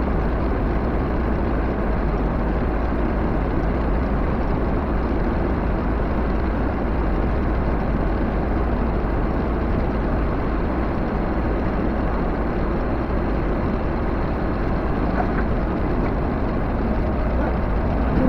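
Backhoe engine running steadily, a constant low drone with no change in pace.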